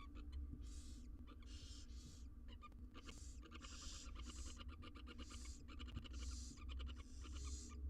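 Barn owl nestlings giving their hissing, snore-like begging calls: repeated raspy bursts about once a second from several chicks, some with a fine rattling pulse. A steady low hum runs underneath.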